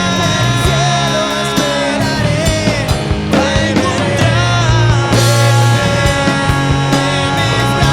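Live rock band playing an instrumental passage with distorted electric guitars, bass and drums; a sung word holds over near the start, and a lead guitar melody bends above the band.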